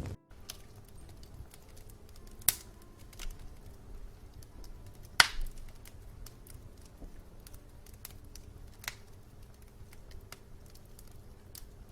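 Wood fire in a fireplace crackling quietly, with scattered sharp pops and snaps; the two loudest come about two and a half and five seconds in.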